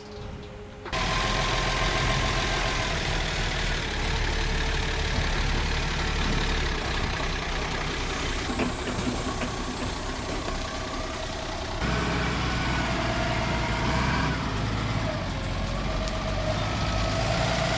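Forklift engine running steadily, starting up loud about a second in and shifting in pitch a couple of times.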